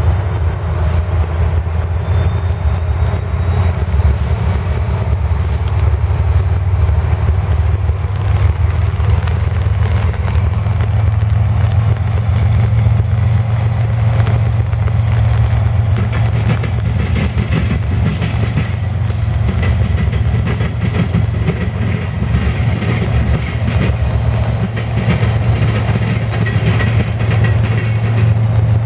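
A freight train's diesel locomotives, an EMD SD70AC and a GE ES44AH, running with a steady low drone, while the wheels click over the rails.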